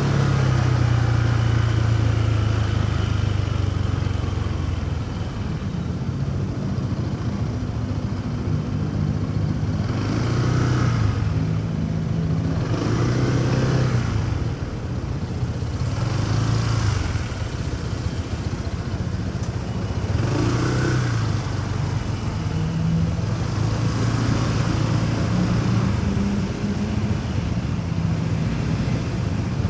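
Motorcycle engine running under way through city traffic, its pitch rising and falling with the throttle, over steady road noise. Swells of sound from other vehicles come every few seconds.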